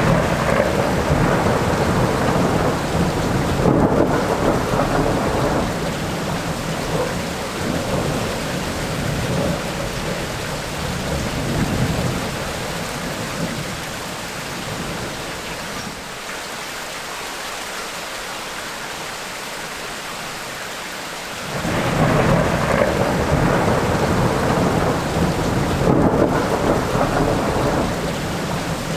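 Rainstorm: steady heavy rain hiss with long rolls of thunder. One roll rumbles from the start and fades out about halfway. After a quieter stretch of rain alone, a second roll breaks in suddenly about three-quarters of the way through.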